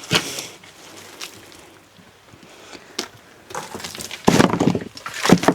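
Handling of wood and debris: scattered knocks and crunches, growing louder in a burst of crunching and knocking in the last second and a half.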